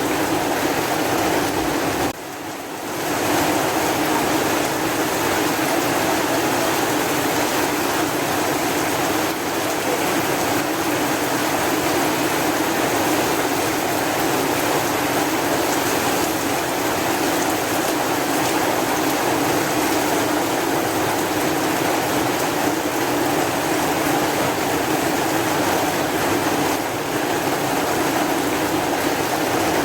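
Heavy rain falling as a steady, dense hiss, dipping briefly about two seconds in and swelling back.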